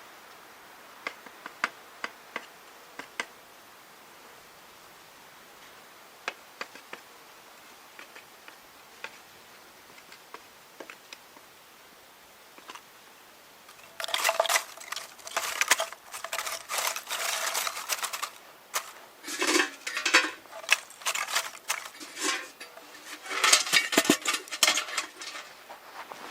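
Hard small objects clinking: a few scattered sharp clicks, then from about halfway a dense run of rattling and clattering, like pieces knocking against one another or against a hard container.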